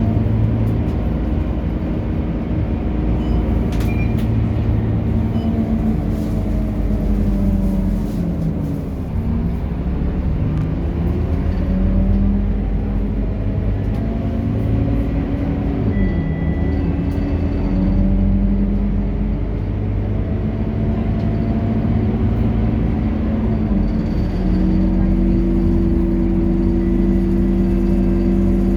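Scania K230UB city bus's diesel engine running under way, its pitch falling as the bus slows about a third of the way in and rising again as it pulls away, then holding steady near the end.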